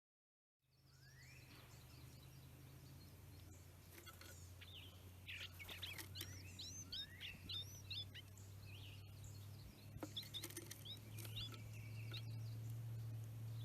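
Wild songbirds calling and singing: rising sweeping notes, a quick series of short high chirps about halfway through, and more chirps later, over a steady low hum.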